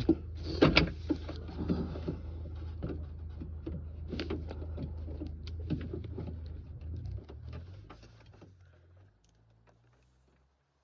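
Irregular small clicks and knocks of metal and plastic parts being worked inside a car door while prying at a stuck clip on the door lock assembly, over a steady low hum. The hum and the clicking fade out about eight seconds in.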